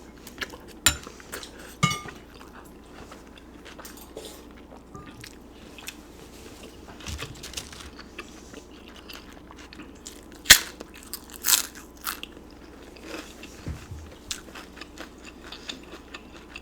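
Close-miked eating of pozole: wet chewing, slurps and sharp mouth clicks, the loudest click about ten and a half seconds in.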